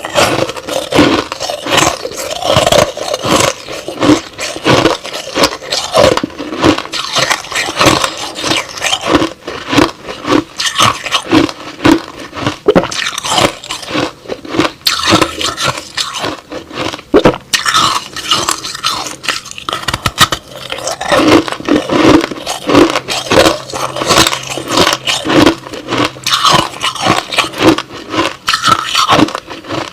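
A person chewing a mouthful of crushed-ice slush, a dense run of crunching that goes on without a break.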